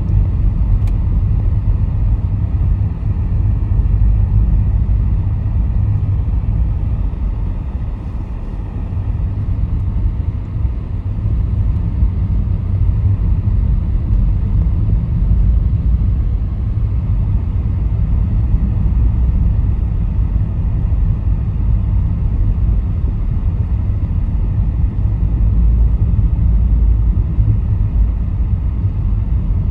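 Steady low road rumble inside a moving car: engine and tyre noise while driving, with no breaks.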